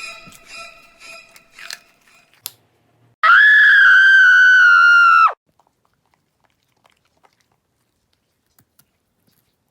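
A few bell-like chime notes that fade out, then a loud, high, steady shriek-like tone lasting about two seconds that drops in pitch as it cuts off: a horror-style sound effect. After it, only a few faint ticks.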